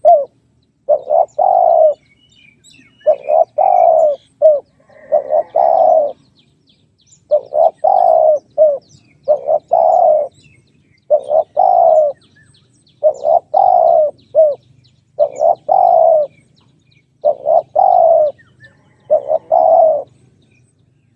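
Spotted dove cooing: short phrases of two to four low coos, repeated about every two seconds, stopping shortly before the end.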